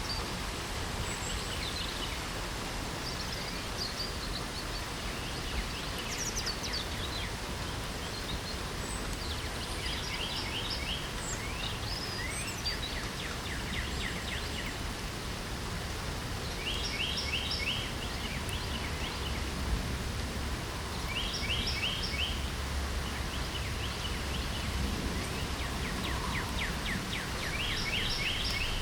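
Steady light rain hiss with several songbirds singing over it. Short bursts of quick repeated notes recur every few seconds, with scattered chirps between them.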